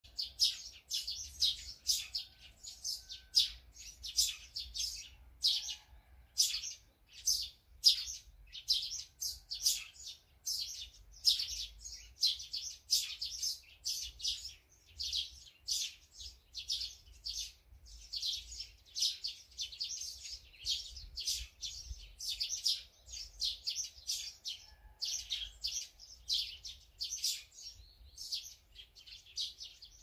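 Small songbirds chirping: a steady run of short, sharp chirps, about two or three a second, with no let-up.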